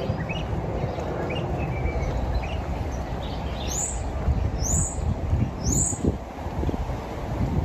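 Birds chirping in street trees: short chirps at first, then three loud, high, rising calls about a second apart midway. They sit over the walker's footsteps and a steady low background rumble.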